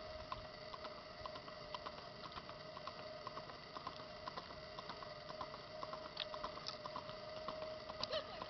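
Small birds chirping faintly in the woods, many short quick calls and ticks, over a steady faint hum.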